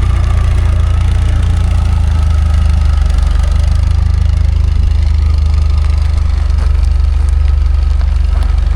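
Engine of heavy farm machinery running steadily: a loud, even, deep hum, whose pitch shifts slightly about two seconds in.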